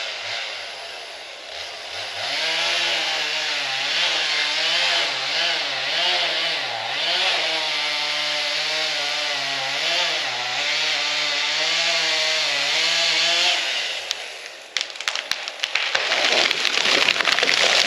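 Two-stroke Husqvarna 51 chainsaw, freshly tuned up with a new chain, running under load in a cut, its pitch dipping and recovering repeatedly, then stopping about 14 seconds in. A rapid crackle of sharp snaps and cracks follows near the end.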